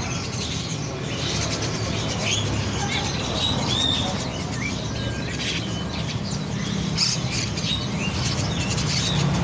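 Small songbirds chirping: many short calls and quick whistled glides, over a steady low hum.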